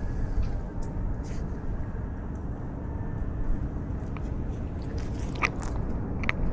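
Low rumbling rub and wind noise from a cat's collar camera as the cat moves, with a few short sharp clicks in the last couple of seconds.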